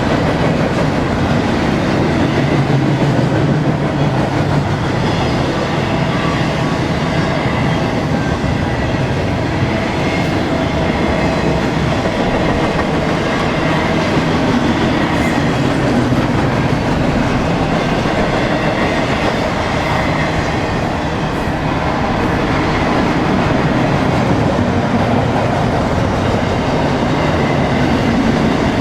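Cars of a BNSF intermodal freight train rolling past: steady wheel-on-rail noise.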